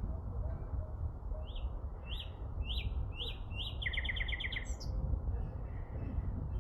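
A songbird sings one phrase of about five short, clear notes, then a quick trill that ends it, over a steady low rumble.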